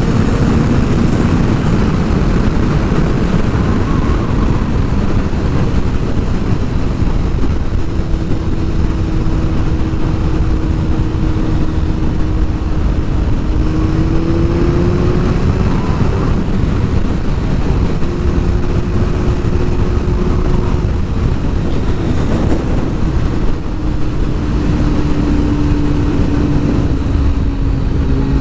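Sport motorcycle riding at speed, heavy wind noise over the microphone with the engine running at a steady pitch that rises briefly about halfway through.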